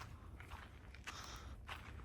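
A hiker's footsteps at a steady walking pace, each step a short scuff about every half second, over a low steady rumble.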